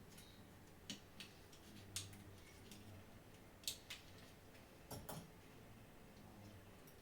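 Faint, scattered clicks and taps of small tools against plastic controller parts, about half a dozen at irregular intervals.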